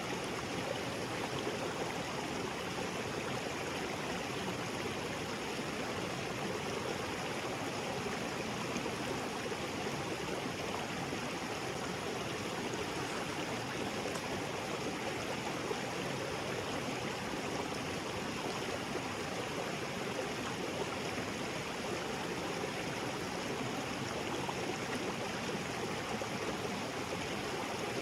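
Small waterfall and the creek below it, water rushing and splashing over rocks in a steady, even flow.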